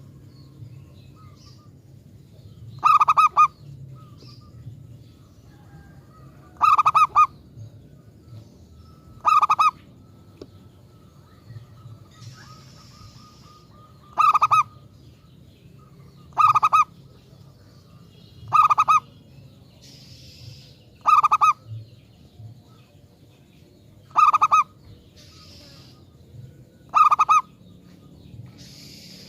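Zebra dove (perkutut) cooing: nine short, loud, rapidly pulsed coo phrases, one every two to three seconds, over a faint low hum.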